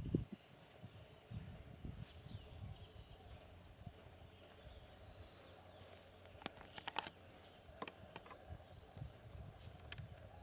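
Faint outdoor ambience with birds giving short chirps that slide in pitch. There are a few low rumbles and a cluster of sharp clicks a little past the middle.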